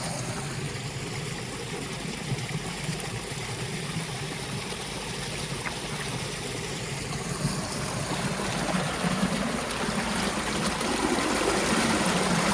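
Water from a burst field drain running out through a freshly dug channel: a steady stream flowing and trickling, a little louder towards the end.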